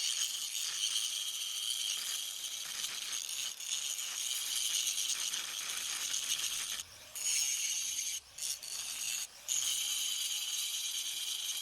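Angle grinder grinding down the steel side of a weld-repaired anvil: a steady, high-pitched grinding hiss, cut off briefly three times in the later part as the disc is lifted.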